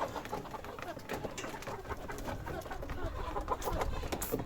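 A flock of brown layer pullets close to point of lay, clucking and calling together in many short overlapping calls, with a brief sharp knock near the end.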